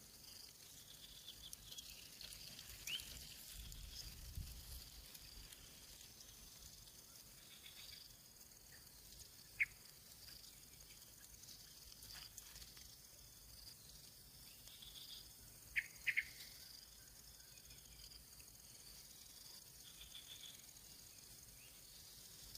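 Faint outdoor ambience of insects, likely crickets, making a steady high hum. A few short, sharp high chirps stand out: one around the middle and two close together a little past halfway.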